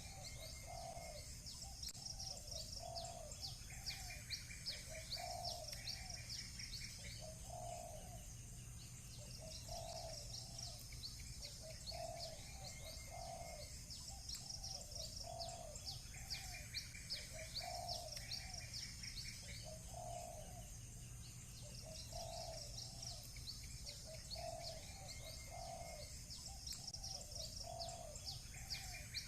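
Village birdsong. A low cooing call repeats about every second and a half throughout, while small birds chirp rapidly and high-pitched in spells that come and go, with a few short trills. A steady low rumble runs underneath.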